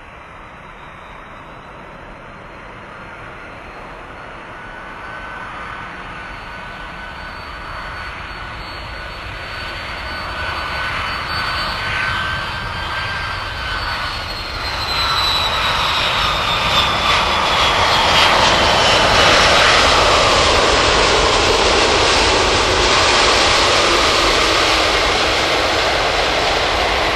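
Airbus A330 twin-engine jet airliner on landing approach, growing steadily louder as it nears. Its engine whine drops in pitch as it passes, about halfway through, and then it stays loud with a broad jet rumble.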